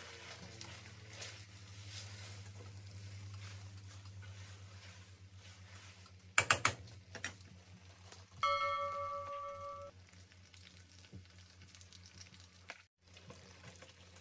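Spaghetti in tomato sauce sizzling faintly in a stainless steel pan as it is stirred, over a steady low hum. A few sharp knocks come about six and a half seconds in, and a bell-like chime rings and fades about two seconds later.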